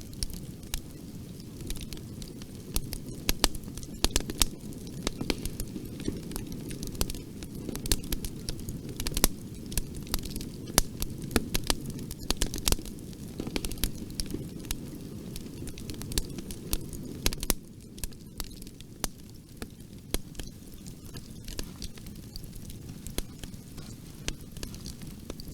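Bonfire burning: a steady low rumble of the flames with frequent sharp crackles and pops from the burning wood, a little quieter from about two-thirds of the way in.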